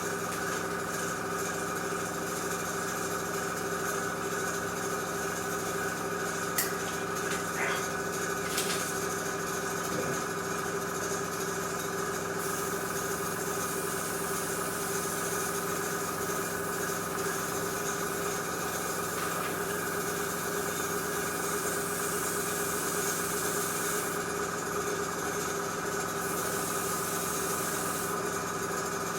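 Airbrush air compressor running with a steady hum, while the airbrush sprays with a high hiss in two stretches: a long one from just under halfway in and a short one near the end. A few light clicks about a quarter of the way in.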